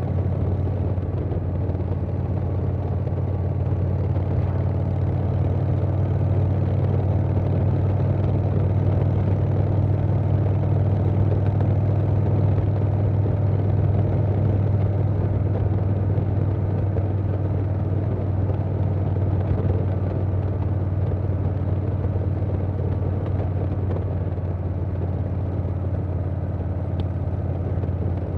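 Harley-Davidson Softail Standard's Milwaukee-Eight V-twin running through a Vance & Hines Big Radius 2-into-2 exhaust, holding a steady cruising speed with a low, even exhaust note.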